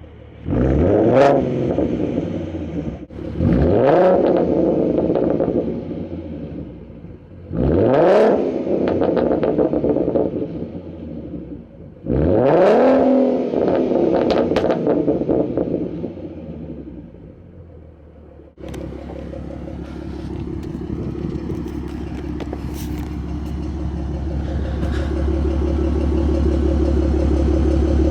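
Ford Mustang 3.7 V6 with BBK shorty headers and a Roush axleback exhaust being revved four times, each rev climbing quickly and falling back slowly to idle. After an abrupt change it gives way to a steady low rumble that slowly grows louder.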